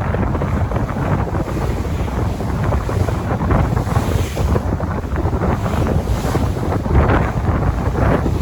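Sea waves and surf washing in, with strong wind buffeting the microphone.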